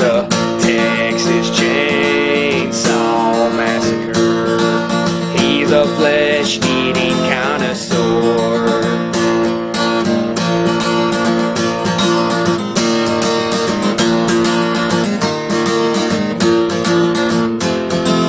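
Acoustic guitar strummed, chords ringing with a steady rhythm and some sliding notes near the start.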